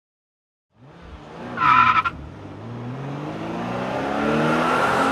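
Car accelerating hard: a short, loud tire squeal about a second and a half in, then the engine note climbing steadily in pitch and growing louder as it speeds up.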